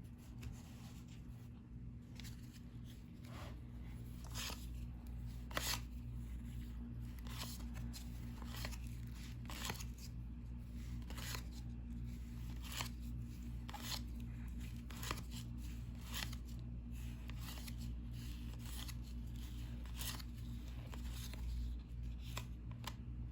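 Cardboard 1990-91 NBA Hoops trading cards being flipped through one at a time, a short crisp snap about once a second, over a steady low hum.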